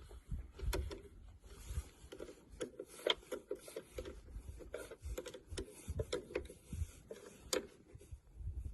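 Irregular light clicks and knocks of a wrench and metal parts being handled while a battery is hooked up, some sharper clicks about three seconds in and near the end.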